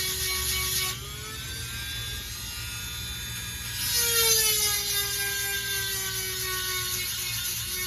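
Dremel rotary tool with a 7/32 grinding stone whining at high speed as it sharpens chainsaw chain cutters. The whine drops and quiets about a second in, returns louder about four seconds in, then slowly sinks in pitch as the stone bears on the tooth.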